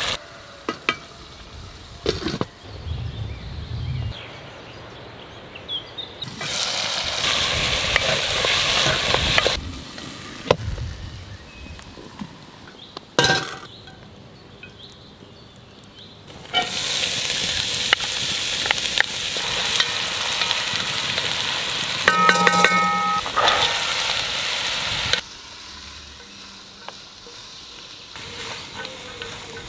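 Food sizzling as it fries in oil in a pot over a wood fire, in two long loud stretches: one about six seconds in and a longer one from just past halfway. Between and after them it is much quieter, with a few clicks, and near the end a spoon stirs the pot.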